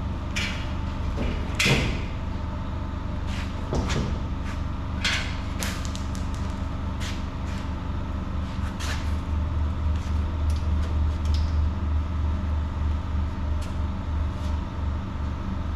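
Scattered clanks and knocks of truck sheet-metal parts and hardware being handled and fitted, the loudest about two seconds in, over a steady low hum.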